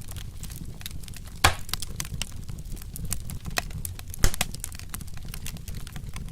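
Wood fire crackling: a rapid scatter of small sharp pops over the low rumble of the flames, with two louder pops, one about a second and a half in and one about four seconds in.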